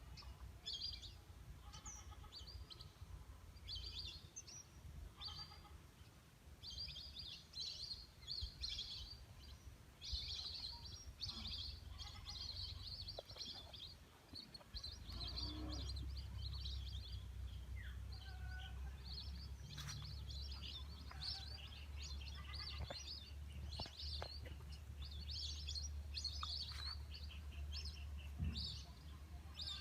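A flock of birds chirping and calling, many short high calls overlapping throughout, with a low steady rumble underneath that grows from about halfway.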